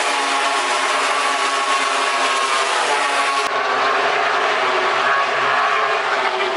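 MotoGP racing motorcycle engines running hard on track, their high engine note drifting up and down in pitch. The sound changes abruptly about halfway through.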